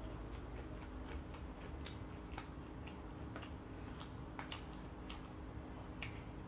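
Close-up chewing of sauce-coated fried chicken: irregular wet mouth clicks and smacks, a few a second, over a low steady hum.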